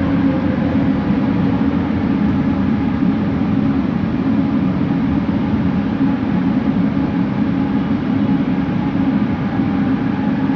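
Bombardier Innovia ART 200 train running at speed, heard from inside the car as a steady rumble, with a faint motor tone coming in near the end.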